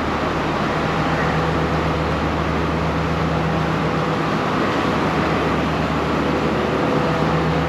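Steady hum of a diesel passenger train standing at the platform with its engine idling: a low, even drone with a faint higher tone over a wash of platform noise.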